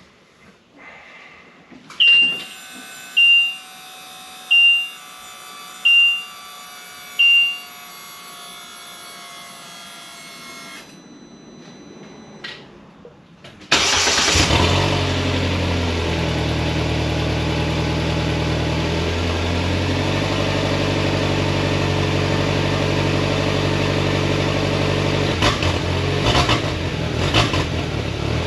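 Polaris Slingshot key-on: five short electronic beeps about a second apart over a faint steady hum. Then the engine cranks and catches suddenly about halfway through and settles into a steady cold idle on its stock exhaust, with a few small throttle blips near the end.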